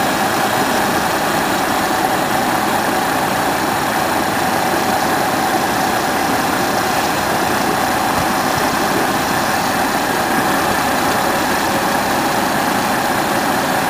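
A motor vehicle's engine running steadily at idle, an even rumble with a faint steady hum, unchanging throughout.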